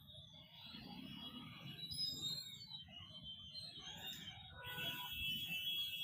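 Street traffic in a jam: a steady low rumble of running vehicles, with scattered higher tones that grow brighter near the end.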